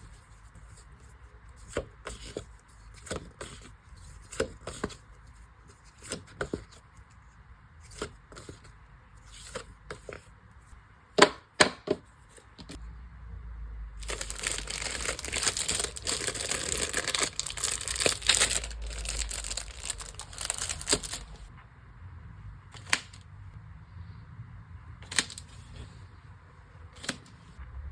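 Packing an order by hand: scattered light taps and clicks as items are handled, then, about halfway through, some seven seconds of continuous crinkling and tearing of packaging material, followed by more taps.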